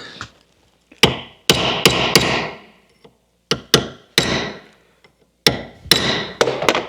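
Hammer strikes bending back the steel lock-plate tangs on the steering box's lever shaft stud nut: about eleven sharp metallic hits in small clusters, each with a short ring.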